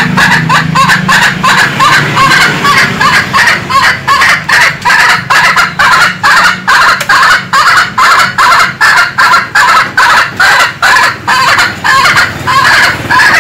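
Domestic hen clucking in a rapid, unbroken run of short calls, about three a second.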